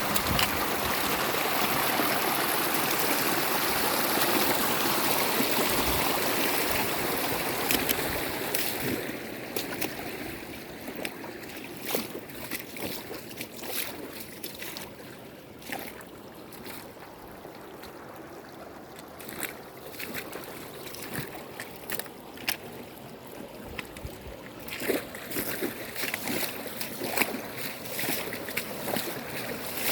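Running water: a loud, even rush for about the first eight seconds, then quieter, with many small splashes and trickles.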